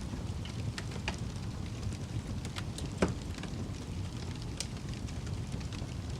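Crackling fire: a steady low rumble with scattered sharp snaps and pops, one louder pop about three seconds in.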